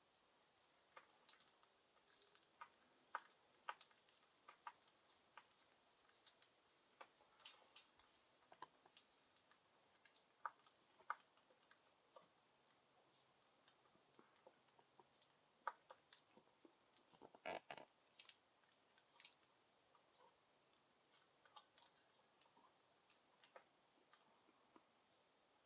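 Budgies pecking and nibbling at a bowl of chopped fruits and vegetables: faint, irregular beak clicks and taps.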